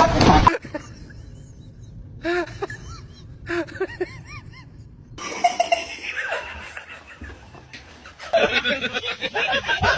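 A person laughing in short bursts, with louder, denser laughter near the end.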